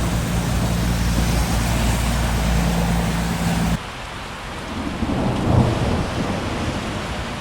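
Heavy rain and wind noise while riding, over the steady low hum of the Yamaha Ténéré 700's engine. After a sudden cut a little under four seconds in, rain hiss continues and a low rumble of thunder swells and fades.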